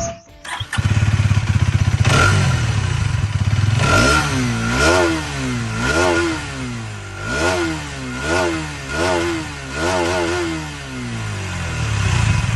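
Hero Xtreme 250R's single-cylinder 250 cc engine idling, then revved in a series of about seven quick throttle blips, each rising and falling in pitch. It settles back to a steady idle near the end.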